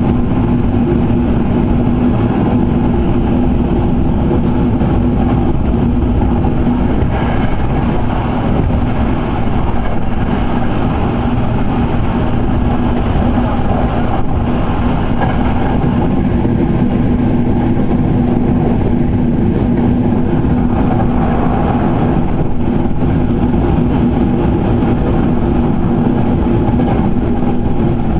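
Electric commuter train, a Sanyo 5000 series, running at speed between stations, heard from inside the passenger car: a continuous rumble of the wheels on the track with a steady low tone over it.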